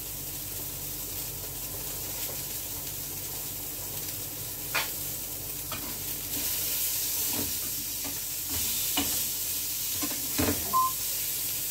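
Beef burger patties frying in a pan with a steady sizzle, a little louder from about six seconds in. A few sharp clicks and knocks sound over it in the second half.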